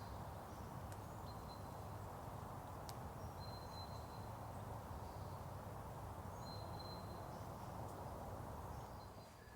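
Quiet woodland ambience: a steady low hiss of outdoor background with a bird's short, thin, high whistled notes repeating every two to three seconds, and a single faint click about three seconds in.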